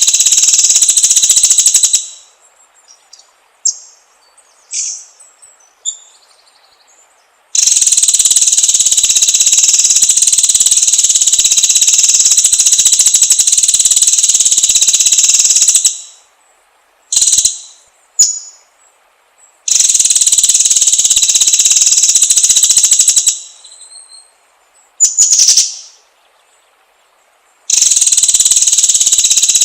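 Songbird lure recording: long bouts of loud, shrill, steady buzzing, insect-like, alternating with short bird chirps and quick whistled glides in the pauses between bouts.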